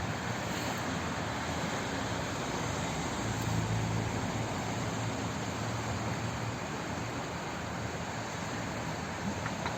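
Flowing water rushing steadily as an even, continuous hiss, with a low rumble that swells about three seconds in and fades a few seconds later.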